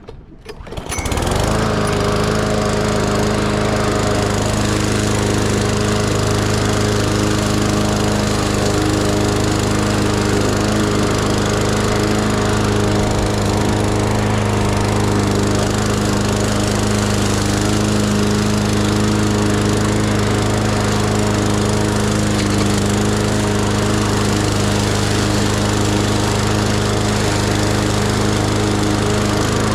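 Lawn mower engine running steadily under load. It comes in about a second in and then holds an even, unchanging note.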